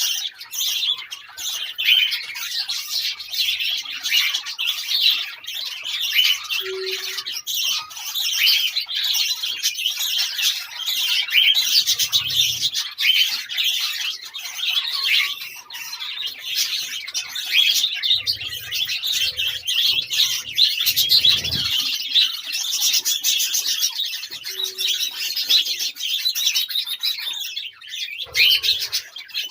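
Budgerigars chirping and chattering without pause in a dense, high-pitched stream, with a few soft low thumps now and then.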